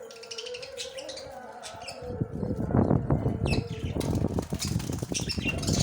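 Pet budgerigars chirping, with a loud flurry of wing-flapping from about two seconds in.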